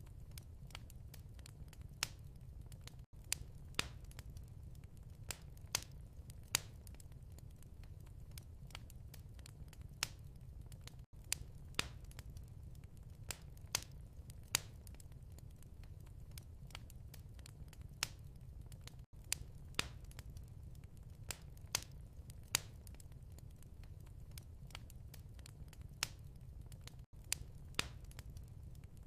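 Wood fire crackling, with irregular sharp pops and snaps over a low, steady rumble. It is a short recording looped about every eight seconds, with a brief dropout at each seam.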